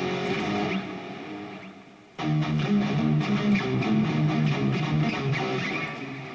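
Harley Benton SC-500 electric guitar played through the Overloud TH3 amp simulator: a riff of picked notes dies away, and a new phrase starts sharply about two seconds in, then fades near the end.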